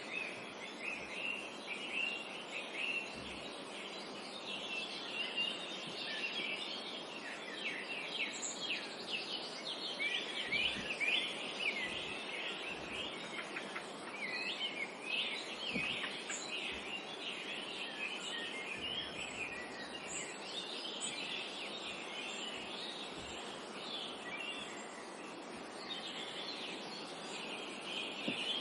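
A chorus of many songbirds chirping and calling at once, quick overlapping high chirps throughout, over a steady background hush of the forest.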